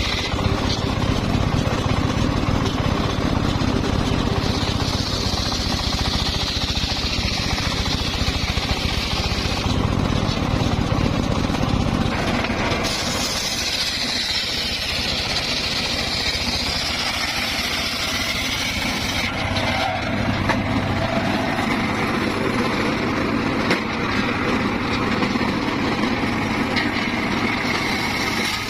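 Homemade circular sawmill running loud and steady as it saws a log, its character shifting abruptly several times.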